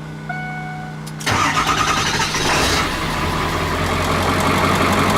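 Ford 7.3 Power Stroke turbocharged V8 diesel cranking and catching about a second in, then settling into a steady idle. It starts on a newly replaced injection pressure regulator, the fault that had kept it from starting, and runs without its serpentine belt.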